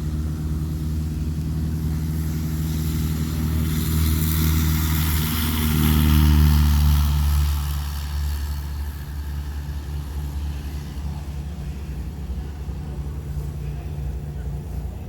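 Motor vehicle running steadily with a low engine drone and road noise. It swells louder about four to seven seconds in, then settles a little quieter.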